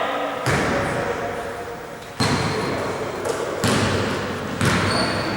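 A basketball bouncing on a hard gym floor: four separate thuds a second or so apart, each ringing out in the hall.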